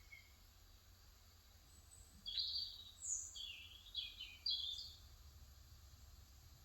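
A bird calling: a quick run of four or five short, high chirps starting about two seconds in, over a faint low steady hum.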